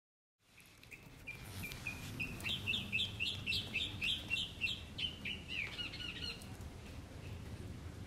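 A songbird singing one song of short repeated chirping notes that starts slowly, quickens into a fast run, and stops about six seconds in.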